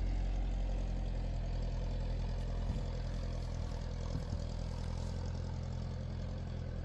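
A steady low engine hum, idling.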